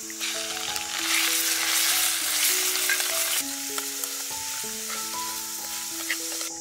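Raw shrimp and chopped garlic frying in hot oil in a pan: a loud sizzle swells about a second in as the shrimp go in, then eases a little after a couple of seconds into steadier frying. Soft background music with held notes plays along.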